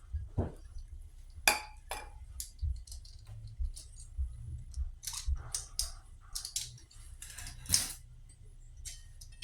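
Metal tools and parts being handled on a workbench: scattered clinks, clicks and knocks, the loudest about a second and a half in and again near eight seconds.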